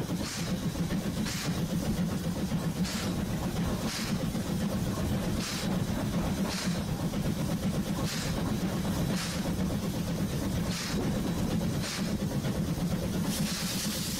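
Train running slowly: a steady low rumble with a short hiss about every one to one and a half seconds, and a longer hiss starting near the end.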